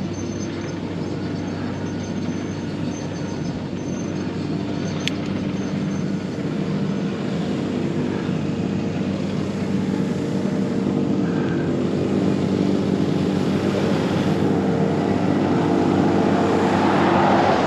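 Lawnmower engine running steadily, getting louder as it comes closer.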